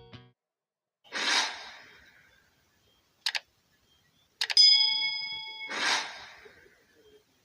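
Edited-in sound effects: a whoosh, a quick double click, two more clicks leading into a short bell-like ding, then a second whoosh.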